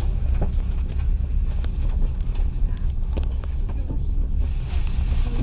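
Passenger train carriage running along the track: a steady low rumble of wheels on rails with a few sharp clicks and knocks.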